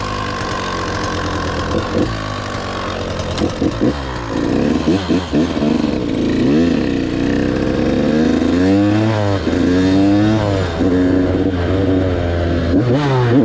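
KTM 85 BigWheel's two-stroke engine running low at first, with a few sharp clicks, then revving up and dropping back several times as the bike accelerates and shifts through the gears.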